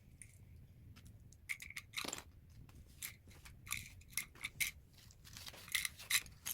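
Small plastic LEGO pieces clicking and clattering as they are handled and pressed together: about a dozen short, sharp clicks at irregular intervals, most of them after the first second and a half.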